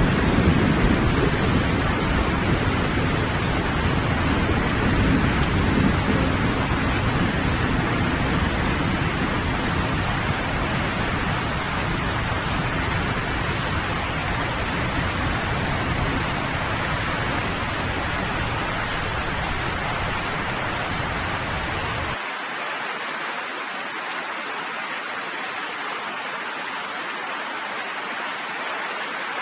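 Steady heavy rain with a low rolling thunder rumble underneath that slowly fades, then cuts off abruptly about three-quarters of the way through, leaving only the hiss of the rain.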